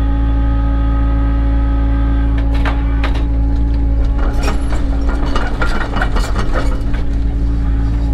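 Cat 307 excavator's diesel engine running steadily with a high whine for the first couple of seconds, then a run of metallic knocks and clanks through the middle of the clip.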